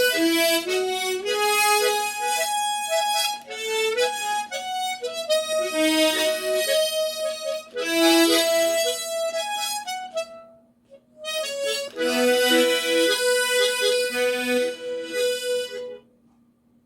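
Harmonica playing a slow go-go melody with octave chords, several notes sounding together. Two phrases, with a short pause about ten seconds in, stopping shortly before the end.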